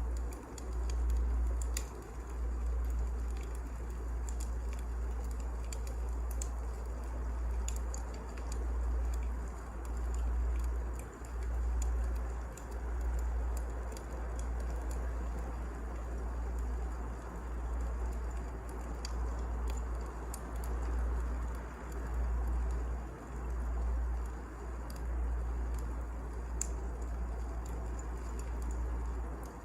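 Wood fire crackling, with scattered sharp pops over a low rumble of flames that swells and eases every couple of seconds.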